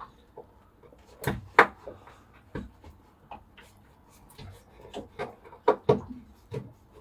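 Handling noise of DIY woodwork: scattered knocks and clacks, loudest around a second and a half in and again just before six seconds.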